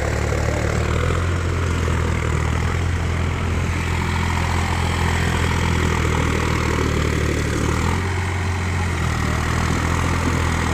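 Mahindra tractor's diesel engine running steadily at low revs; its note shifts about eight seconds in.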